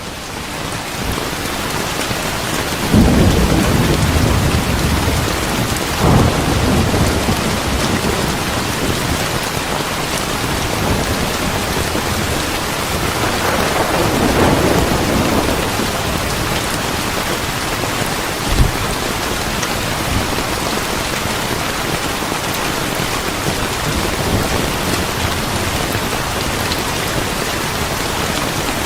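Steady heavy rain, with thunder rumbling in rolls about 3 and 6 seconds in and again around 14 seconds, and a single sharp crack near the middle.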